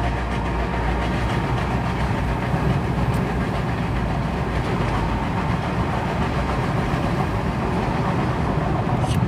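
Steady vehicle noise, heaviest in the low end and even in level throughout.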